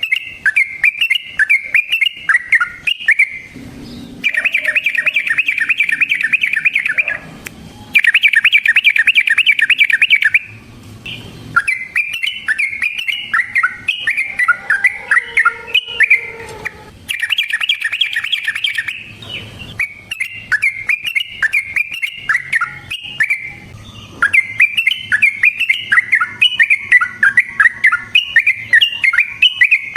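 Yellow-vented bulbul (trucukan) singing in loud, bubbly phrases of quick chattering notes, broken by short pauses, with stretches of fast rolling trills (the 'ropel' the bird is prized for) about four seconds in, near eight seconds and around seventeen seconds.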